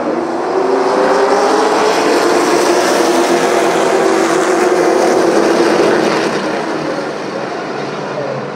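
A pack of super trucks' racing engines at full throttle, several engines at once, swelling loud and then fading as the pack passes.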